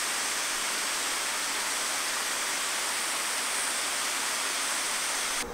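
Steady rush of flowing river water, an even hiss that cuts off abruptly near the end.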